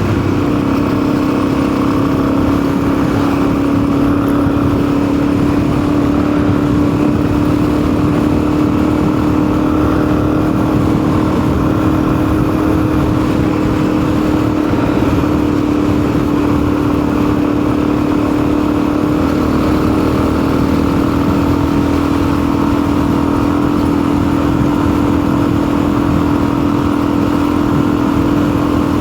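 Motorcycle engine running steadily under way, a drone holding nearly one pitch with no clear revving up or down.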